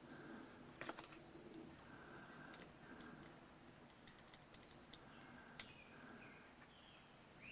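Near silence with faint, scattered clicks and taps of small carburetor parts being handled during disassembly.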